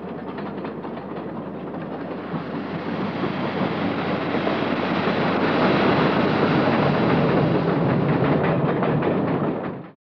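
Train running on rails, with rapid clicking of wheels over rail joints above a rushing noise. It grows louder over the first half, holds, and cuts off abruptly near the end.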